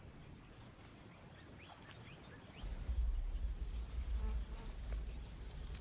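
Steady high insect buzz with a few short rising bird chirps. About halfway in, a loud deep low rumble sets in and continues.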